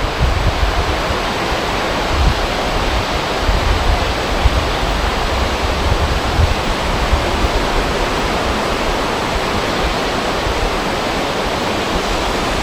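Wind blowing: a steady rushing hiss with an uneven low rumble of wind buffeting the microphone.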